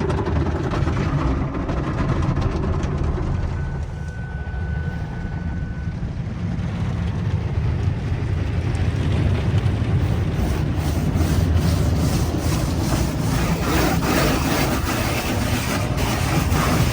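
Automatic car wash running: a steady low rumble of machinery and spraying water, turning louder and busier with rapid irregular knocking in the second half. A brief steady tone sounds about four seconds in.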